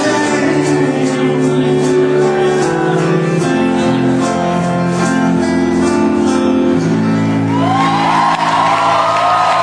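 A live rock band plays a song's closing chords, drum cymbals striking in an even beat, with a singing voice over the top. About seven and a half seconds in, the beat stops and the crowd begins to whoop and cheer.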